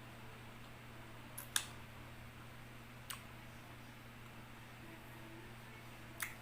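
A person eating pineapple: a few sharp, wet mouth clicks spaced out over several seconds, above a steady low hum.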